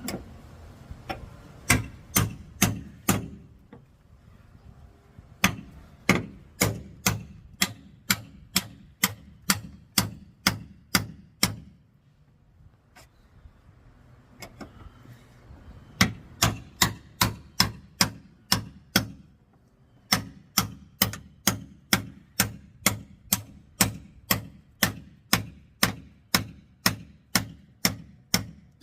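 Hammer blows on the damaged rear bodywork of a Honda Pilot SUV, sharp strikes at a steady pace of about two a second, in four runs with short pauses between.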